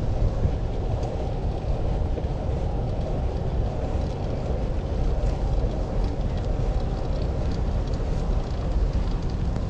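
Steady low rumble of wind on the microphone and road noise from riding a fixed-gear bicycle.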